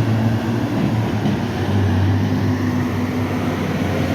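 Heavy truck's diesel engine running as it passes, a loud low steady drone whose note shifts a little about halfway through.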